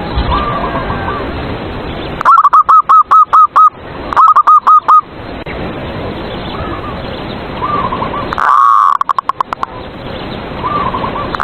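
Zebra doves (perkutut) cooing their 'manggung' song: loud runs of quick, evenly repeated coo notes about 2 and 4 seconds in, and another loud coo trailing into a fast staccato run about 8.5 seconds in. Fainter coos sound between them over a steady hiss.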